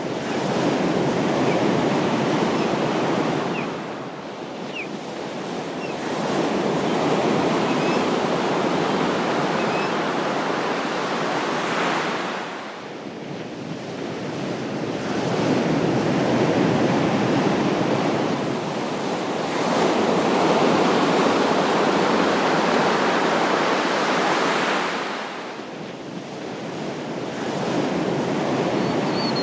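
Ocean waves washing onto a shore, the surf swelling and ebbing in long surges every several seconds.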